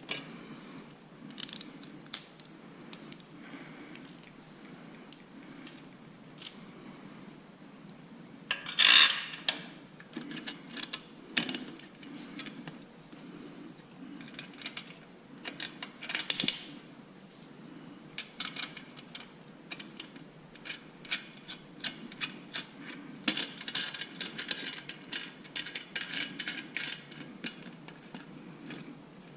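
Metal hand tools and exhaust hardware clinking and scraping during bolt-up work on a motorcycle exhaust, with two louder metallic clatters and, in the last part, a long run of quick clicks.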